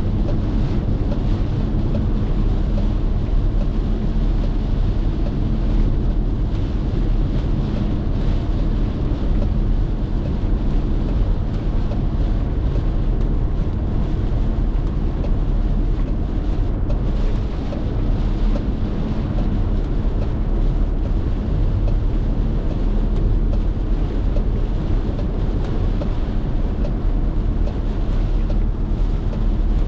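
Car driving at speed: a steady, unbroken rumble of tyres on the road and the engine, with a faint steady hum.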